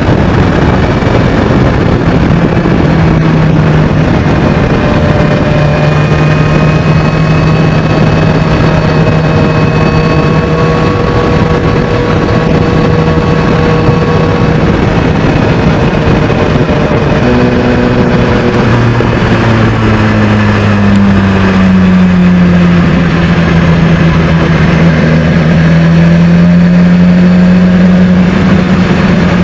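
BMW S1000XR's inline-four engine running loud through a Termignoni exhaust. The engine note holds steady, then jumps higher past the middle, falls back and rises a little near the end.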